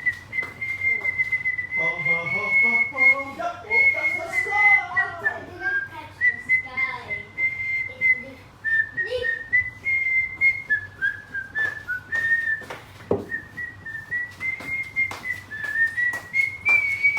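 Caged pet birds calling: a long, high whistle that wavers slightly around one pitch and breaks off briefly now and then. Many small sharp clicks and taps run through it, and lower warbling notes come in a couple of seconds in and fade by about seven seconds.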